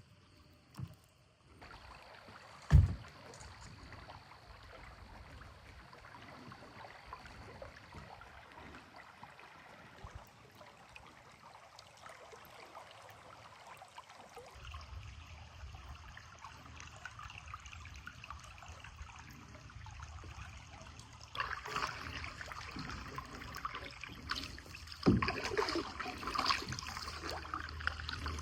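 Creek water trickling and lapping around a canoe. There is a sharp thump about three seconds in, and louder splashing near the end.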